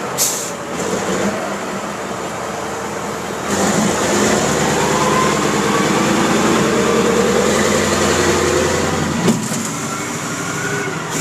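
Caterpillar mining haul truck's diesel engine running, with a brief hiss just after the start. About three and a half seconds in the engine comes up louder and holds, then drops back with a sharp click about two seconds before the end.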